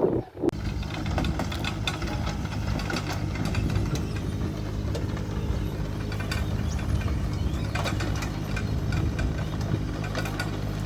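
Engine running steadily at a constant speed with a light rattling clatter, cutting in abruptly about half a second in.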